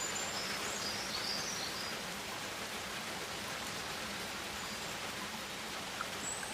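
Rainforest ambience: a steady hiss like rain or running water, with a few short high chirps in the first second or so.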